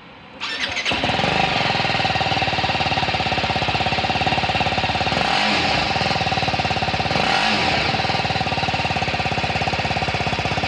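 BMW G310RR's single-cylinder engine running at idle through its exhaust. It comes in about half a second in, with two brief throttle blips about five and seven seconds in.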